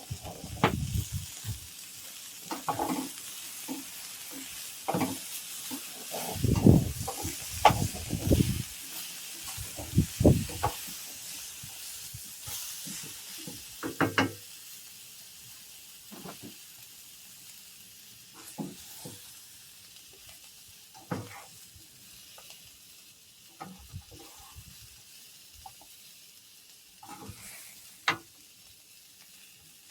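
Food sizzling in a pan with a steady hiss, and a utensil stirring and knocking against it at irregular intervals, most busily in the first half.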